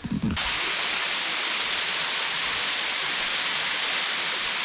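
Steady rushing of falling water from a waterfall, which starts abruptly about half a second in.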